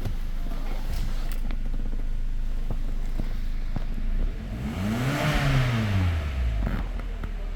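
2010 Hyundai ix35's 2.4-litre petrol four-cylinder engine idling, then revved once about halfway through, its pitch rising and falling back to idle over about two seconds. A few light clicks during the idle.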